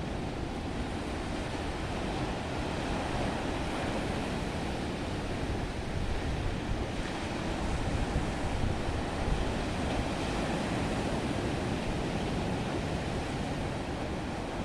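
Black Sea surf washing onto the shore in a steady rush that swells a little about halfway.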